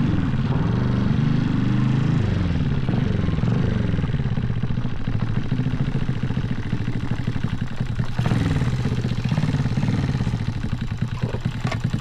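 1985 Honda Z50 minibike's single-cylinder four-stroke engine, built out to 108cc with a stroker crank, running: its pitch rises and falls a few times in the first few seconds as the throttle is worked, then it settles into a steadier, pulsing run.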